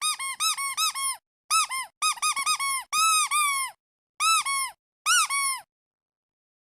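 Squeaky duck toy squeezed again and again: quick runs of high squeaks, each rising then falling in pitch, in bunches with short gaps between. The squeezing stops about a second before the end.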